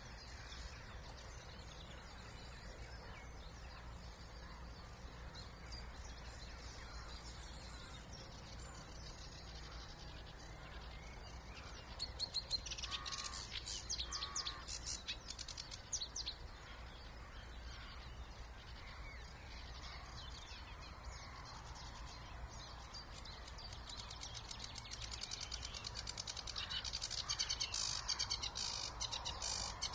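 Songbirds singing in a wetland reserve in spring: a burst of rapid, high trilled song about halfway through and a longer one near the end, with scattered quieter calls between. Under it runs a steady low background rumble of distant noise pollution.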